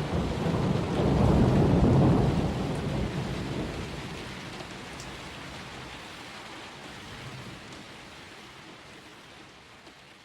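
A thunderstorm: a roll of thunder rumbling over steady rain, dying away in the first few seconds. The rain hiss then fades out slowly.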